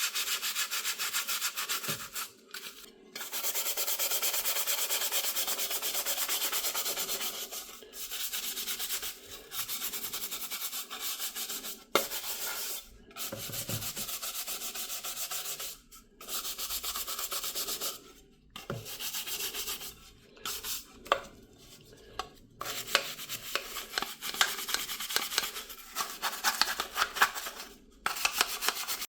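Sandpaper rubbing in quick, rapid strokes, in spells of a few seconds broken by short pauses.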